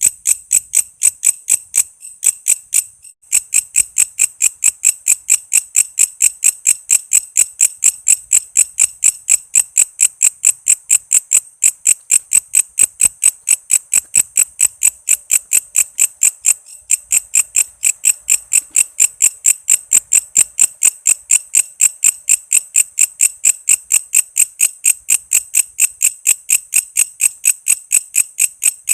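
Walang kece insect calling: sharp, high chirps repeated evenly at about three to four a second, with a short break about two to three seconds in.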